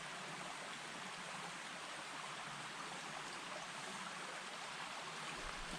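Small mountain stream running over rocks: a steady, even rush of flowing water.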